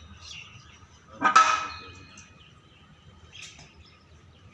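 A single loud metallic clank about a second in, ringing on briefly, then a fainter knock near the end, as heavy engine parts are handled during assembly.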